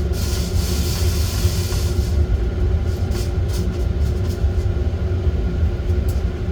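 Coffee roasting in progress: the heat source of a small home roast runs with a steady low roar and a constant hum, and scattered light ticks come over it. A brief hiss rises in the first two seconds.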